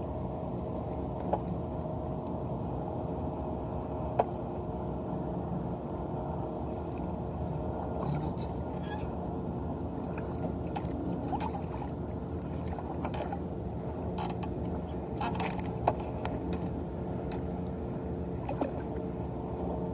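Steady low rumble of water and wind around a fishing kayak, with a faint hum and a few sharp knocks, one about four seconds in and one near the end.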